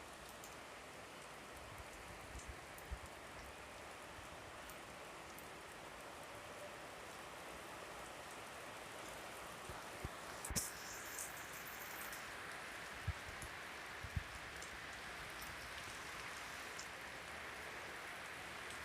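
Steady rain falling, a soft even hiss, with a few dull knocks from heavier drops about three seconds in and again from ten to fourteen seconds in.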